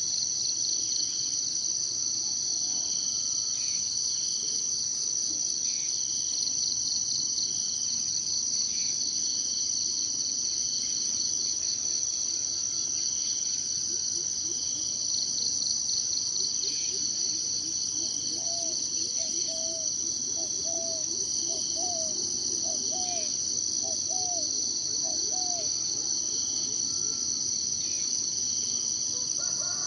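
Steady high-pitched chorus of insects trilling in the forest, with faint bird calls. In the second half a bird repeats a short low note about once a second.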